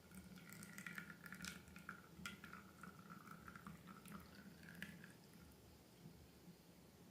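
Faint wet slime sounds: small sticky clicks and pops with a faint wavering tone over the first five seconds, then quieter.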